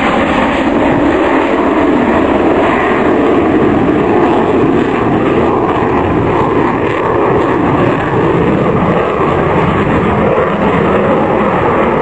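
Jet aircraft flying past: loud, steady engine noise, heaviest in the low and middle pitches.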